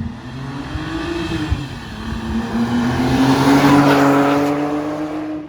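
BMW 328i straight-six with the muffler deleted, accelerating hard: the engine note rises, dips briefly about a second and a half in, as at a gear change, then climbs steadily to its loudest before the revs fall away near the end.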